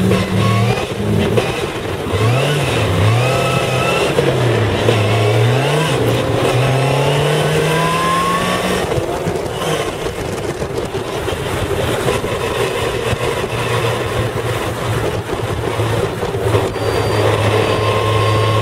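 Caterham R500's Ford Duratec four-cylinder engine heard from the open cockpit, revving up and down several times, then pulling up through the revs in one long rise before settling to a steady note near the end.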